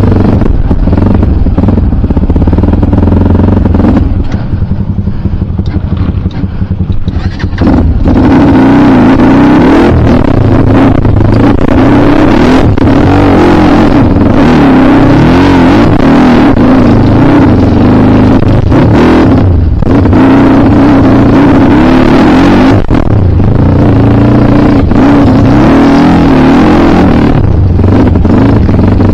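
Kawasaki KLX dirt bike's single-cylinder four-stroke engine running hard under throttle while riding, with the pitch moving up and down. The throttle eases off for a few seconds around the 4-second mark, then opens again and stays loud.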